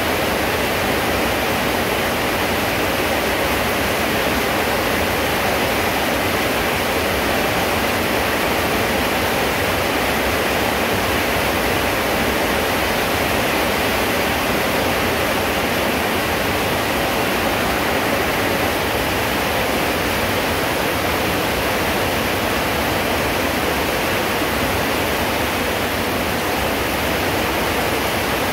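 Rain falling steadily, a loud, even hiss.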